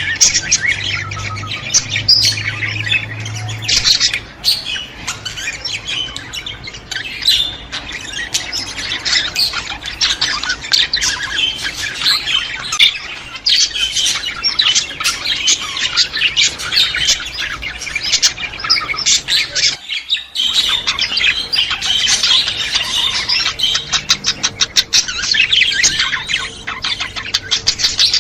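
A flock of budgerigars chattering: many birds warbling, chirping and squawking over one another at once. There is a brief break about two-thirds of the way through.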